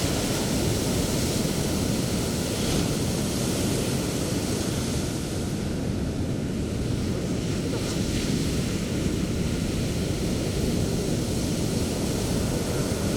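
Sea waves breaking on the beach in a continuous, steady surf, the noise strongest at the low end.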